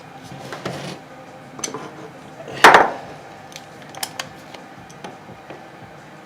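Small metal parts and hand tools clinking and knocking on a workbench during reassembly of an electric starter, with one louder clatter about two and a half seconds in.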